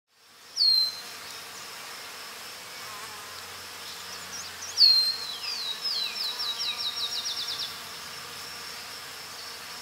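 Outdoor spring ambience: a songbird sings one down-slurred whistle, then a few seconds later a run of down-slurred whistles that speed up into a quick trill. A steady high insect drone goes on underneath.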